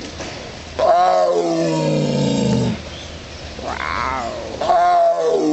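Tiger calling: a long call that falls steadily in pitch starts about a second in, a shorter call rises and falls near the middle, and a third long call begins near the end.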